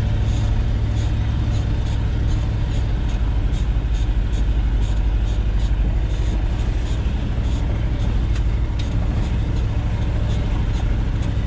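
1973 Ford F-250's 360 V8 running steadily, a deep even drone with a faint regular tick about three times a second.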